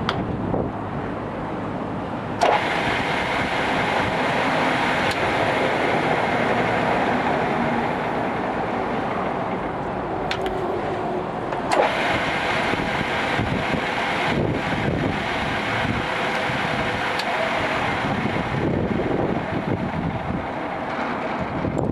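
Takisawa TSL-550 engine lathe running with a steady mechanical whir; a sharp clunk about two seconds in, after which it runs louder, and a couple more clicks near the middle.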